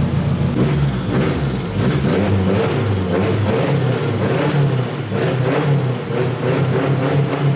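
Nissan SR20 four-cylinder engine in a 240SX running, idling steadily and then, about half a second in, revved with its pitch rising and falling repeatedly.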